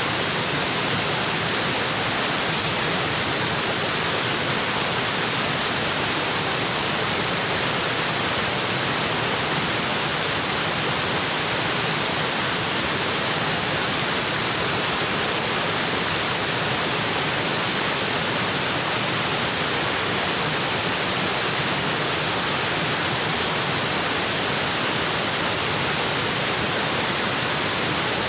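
Waterfall, water pouring onto rocks, a steady, unbroken rush.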